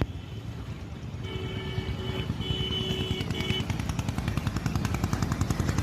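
Vehicle horn sounding three times over a steady low engine rumble, followed by a rapid, even clatter that grows louder.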